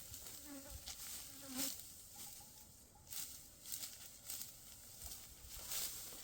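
Dry rustling and crunching strokes come and go. A brief buzz, like a passing fly, is heard in the first two seconds.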